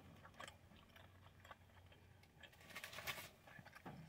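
Faint close-up chewing of a mouthful of fried-chicken wrap: soft, scattered mouth clicks and crunches, a little busier about two and a half to three seconds in.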